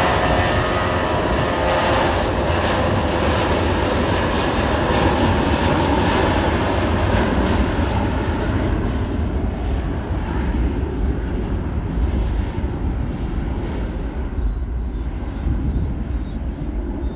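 Airliner's engines passing close by on a landing: loud engine noise with a steady whine at first, slowly fading as the aircraft moves away.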